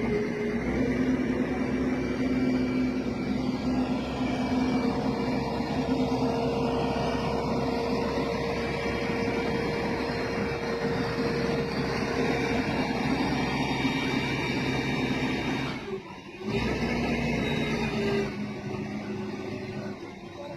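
Construction crane's engine running steadily under load, a constant mechanical drone with a steady whine on top. It cuts out briefly about three-quarters of the way through, then comes back and eases off near the end.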